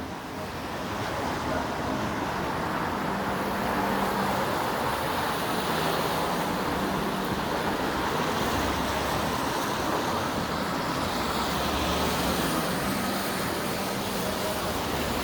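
Steady city-street traffic: cars and buses passing on a wet road, tyre hiss mixed with low engine hum, slightly louder after the first second.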